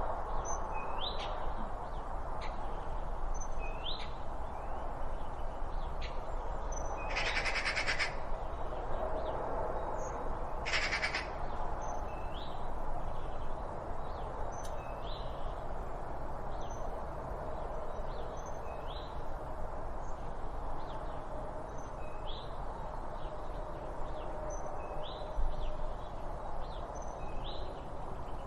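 Wild birds calling over a steady background hiss of ambient noise. One bird repeats a short rising note every second or two, and two rapid, rattling trills come about seven and eleven seconds in.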